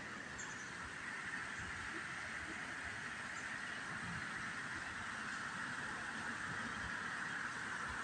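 Sligo Creek's water rushing steadily below a footbridge, an even hiss of flowing water with no pauses.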